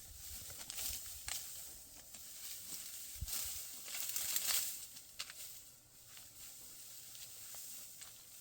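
Dry wheat stalks rustling and crackling in short swishes, the loudest about four seconds in.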